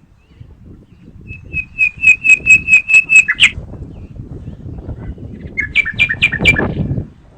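A songbird singing: a fast run of about eight repeated high notes that grow louder and end on a falling note, then a shorter phrase of about five notes a couple of seconds later.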